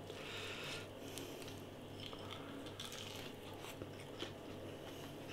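Faint chewing of a chili-breadcrumb-coated chicken chunk, with small scattered crunching clicks over a low steady hum.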